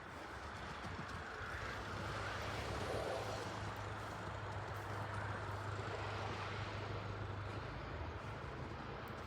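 A motor vehicle passing. A steady low engine hum sits under a broad rush of noise that swells and then eases, and the hum drops away near the end.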